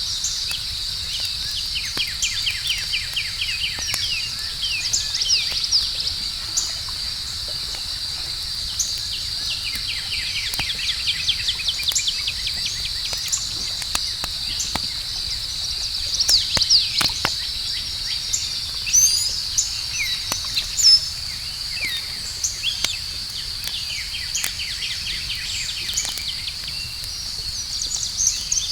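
Crackling campfire with scattered sharp pops, over a steady high-pitched chorus of night insects such as crickets and repeated rapid chirping trills.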